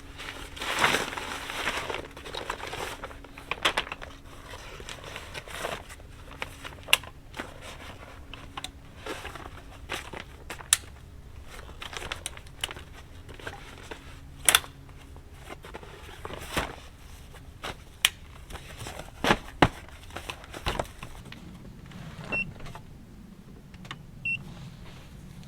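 Irregular clicks, knocks and rustling of things being handled, with two short faint beeps near the end.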